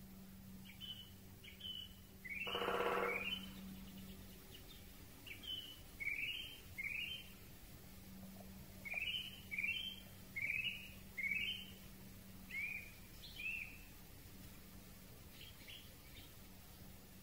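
Wild birds calling: a series of short, rising chirps a second or so apart, with one louder, longer and harsher call about two and a half seconds in.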